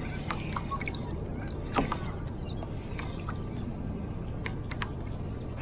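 Small water sounds and light clicks and knocks around a fishing kayak, over a steady low rumble, with one sharper knock about two seconds in.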